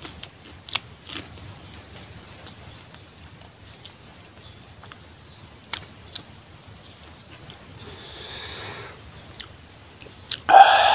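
A bird singing: two runs of quick high chirps, each stepping down in pitch, over a steady high whine. Faint clicks of chewing come through, and a brief loud burst near the end.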